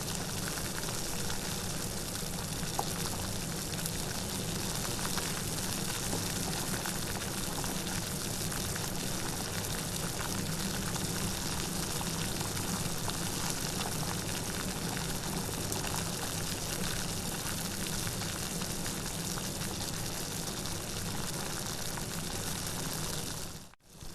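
Steady rain falling, an even hiss with no thunder. Near the end it fades out for a moment and comes straight back, like a loop restarting.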